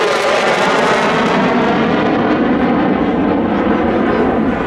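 F-35B Lightning II's F135 turbofan engine, loud and steady, with a whine of many close-spaced tones over the jet noise.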